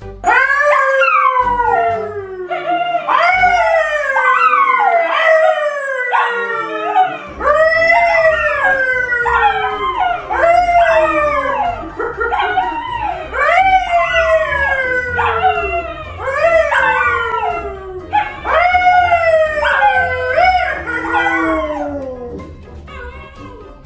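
A dog howling over and over in a long series of pitched, song-like howls, each rising and then sliding down, about one a second.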